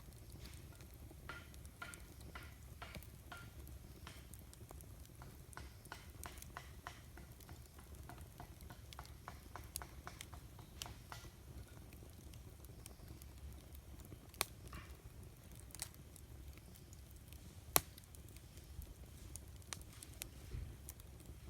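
Wood campfire crackling, with scattered small pops and a few sharper cracks, the loudest about 18 seconds in, over a low steady rumble.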